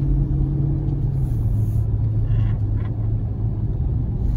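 2012 Jeep Grand Cherokee SRT's HEMI V8 heard from inside the cabin while driving: a steady low drone whose pitch drops a step about a second in, then holds even.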